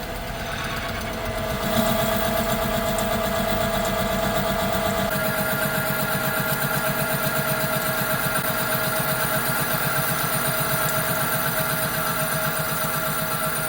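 Metal lathe running and cutting a steel plate, a steady machining sound with a constant whine and a pulsing rhythm, getting louder about two seconds in.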